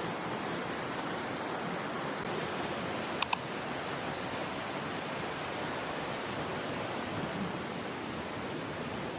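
Steady rush of flowing water from the river and falls, with two sharp clicks close together about three seconds in.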